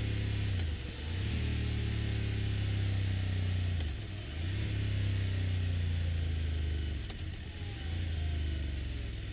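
BMW F900 GS 895 cc parallel-twin engine running through its factory-fitted Akrapovic silencer at a steady idle, its beat briefly sagging in pitch and loudness three times.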